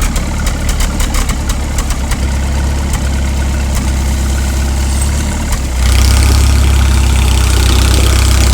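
Tractor engine running with a steady low drone and rapid rattling clicks over the first couple of seconds; about six seconds in it is throttled up and runs louder and steady.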